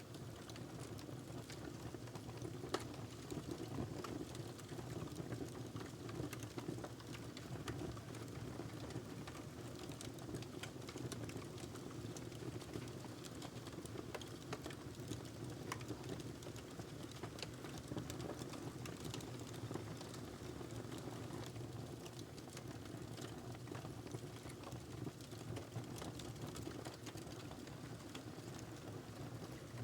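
Wood fire burning with a steady low rush and frequent small, irregular crackles and pops.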